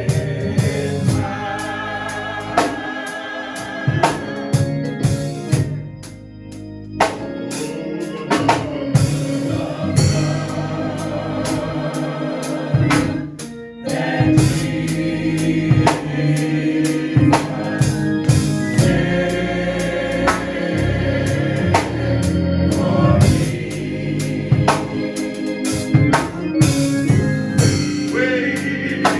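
Gospel choir singing with organ and drum kit, to a steady beat.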